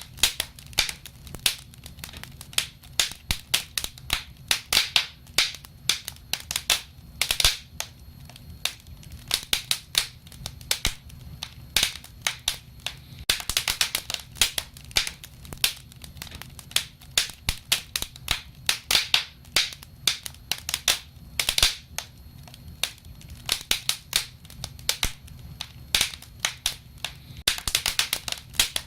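Wood fire crackling: irregular sharp pops and snaps, bunching into denser bursts every few seconds, over a low steady rumble.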